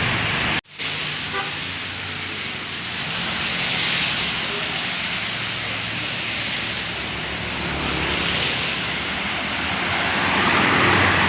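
Road traffic passing on a wet road in the rain: tyre hiss and engine drone swelling and fading as vehicles go by. There is a brief sudden dropout about half a second in.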